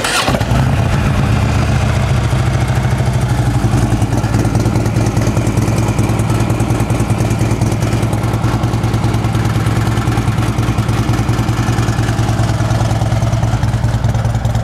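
2014 Harley-Davidson Ultra Limited's 103 cubic inch V-twin engine catching right at the start, then idling steadily through its true dual exhaust.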